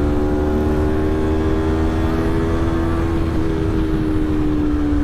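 Motorcycle engine running at steady cruising revs, its pitch easing slowly down, over a constant low rumble of wind and road.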